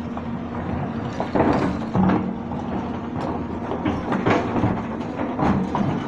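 Excavator working: a steady diesel engine drone with irregular metallic clanks and knocks.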